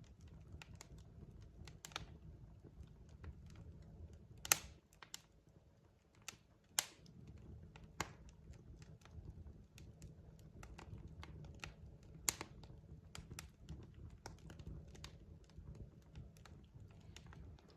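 Logs burning in a fireplace, crackling: irregular sharp pops and ticks over a low, steady rumble. Three pops stand out as louder, about four and a half, seven and twelve seconds in.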